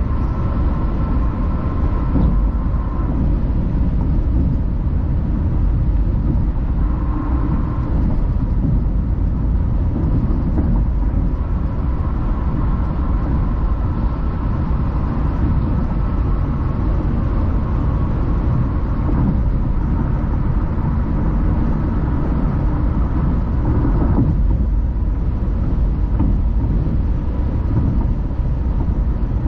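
Car driving along a road: steady low rumble of tyres and engine, with a faint high whine that comes and goes several times.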